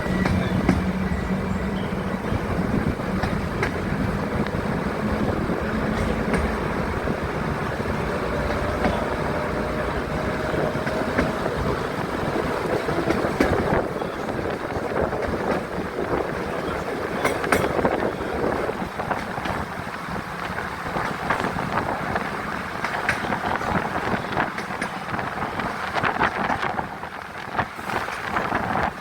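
A train running on the line: a steady rumble with the clatter of its wheels and carriages.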